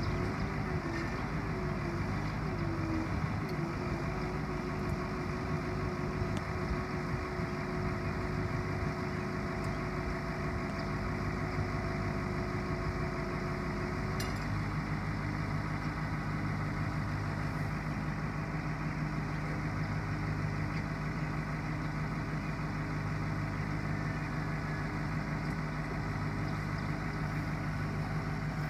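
1990 Ford C8000 bucket truck's engine idling steadily, with a higher steady whine over it that wavers in the first few seconds and stops about halfway through.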